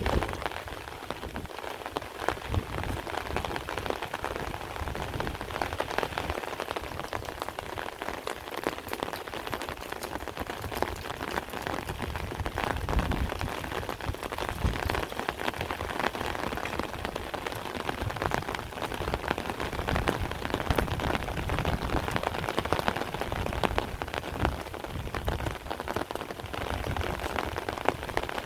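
Heavy rain falling steadily, a dense even patter with many close-by drops striking surfaces.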